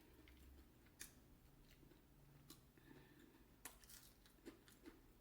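Near silence with a few faint, short clicks, like soft eating sounds.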